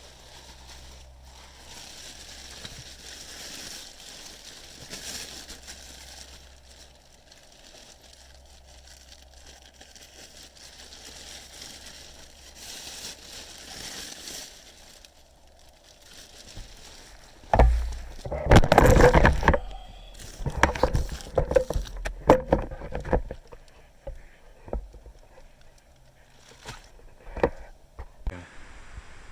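Rustling and bumping of things handled close to the microphone inside a parked car. It is faint hiss at first, then a sudden loud burst of rustling that lasts about two seconds a little past the middle, followed by scattered knocks and clicks.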